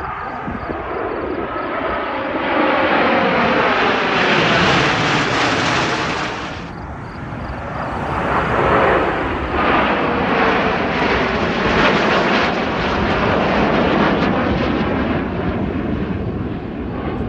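Fixed-wing aircraft engine noise, loud and sustained, with its pitch falling as it passes by; the sound dips about seven seconds in, then swells again with another falling pass.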